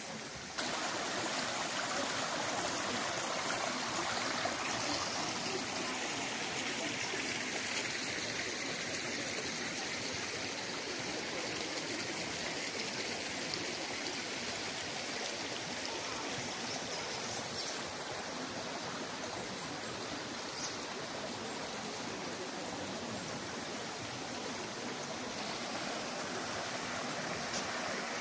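Steady rush of a waterfall on a mountain stream. It jumps louder about half a second in, then holds.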